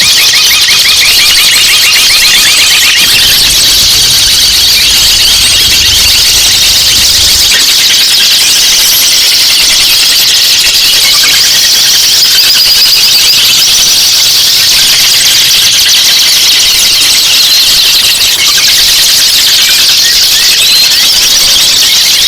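A loud, dense mix of songbird calls layered together for training caged songbirds: rapid high trills at first, then many overlapping chirps and a few quick rising whistles near the end.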